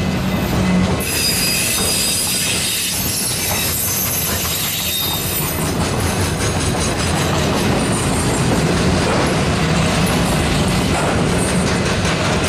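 Autorack freight cars rolling past close by: a steady rumble and clatter of steel wheels on the rails, with high-pitched wheel squeal starting about a second in and coming and going.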